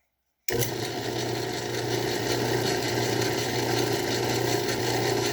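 Craftsman 109 bench lathe starting up abruptly about half a second in and then running steadily, with a constant motor hum and a whirring hiss from the drive.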